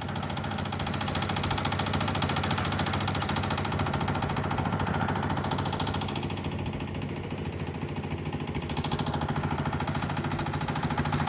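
An engine running steadily, with a fast, even beat.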